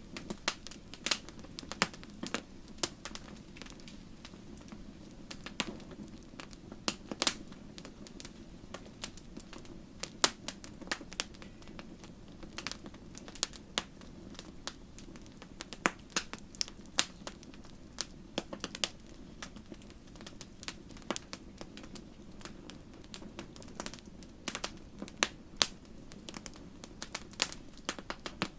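Wood fire crackling, with irregular sharp pops and snaps, several a second, over a steady low hiss of burning.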